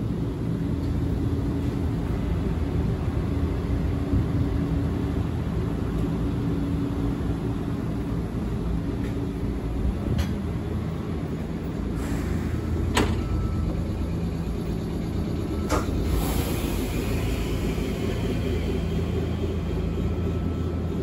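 Steady low rumble and hum inside an electric railcar, with a few sharp knocks around the middle and a short hiss a little past the middle.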